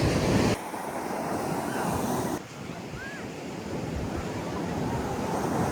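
Ocean surf washing in steadily, with wind buffeting the microphone, strongest in the first half-second.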